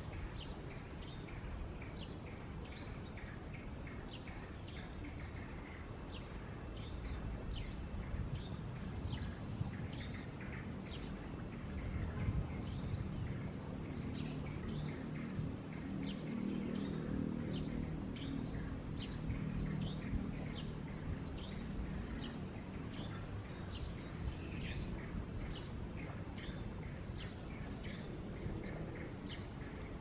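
Small birds chirping rapidly and without pause, short high notes several times a second, over a low outdoor rumble. A low steady drone swells up near the middle and fades away again.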